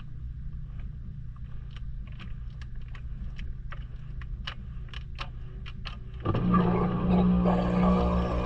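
Maytag washing machine running, heard from inside the drum through a GoPro's waterproof housing: a steady low hum with scattered light clicks and knocks. About six seconds in, background music starts suddenly and takes over.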